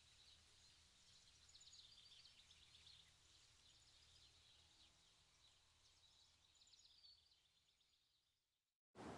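Faint, rapid high-pitched chirping over a low steady hum, fading out near the end, then a sudden loud rush of noise in the last moment.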